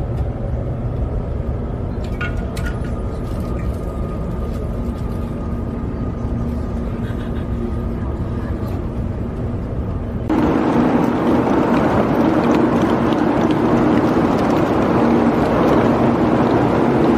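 Steady rumble of a high-speed train's passenger cabin while under way. About ten seconds in it cuts to a louder, rougher rattle of a suitcase's wheels rolling over platform tiles.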